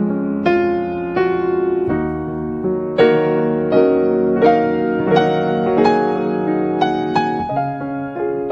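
Background piano music: unhurried notes and chords, each struck and then fading.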